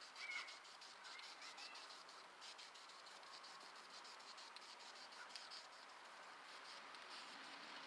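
Near silence: a faint, steady hiss with a few faint clicks.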